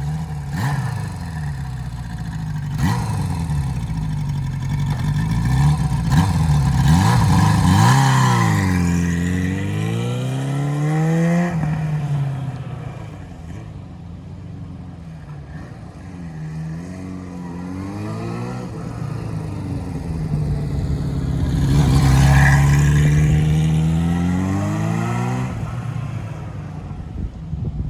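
Kawasaki KZ550GP motorcycle's inline-four engine running and being revved several times, its pitch rising and falling back to idle, with the two biggest revs about a third of the way in and again past three quarters.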